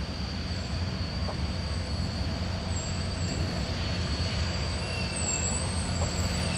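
Union Pacific train moving slowly through the rail yard: a steady low engine rumble, with high wheel squeal wavering in from about five seconds in.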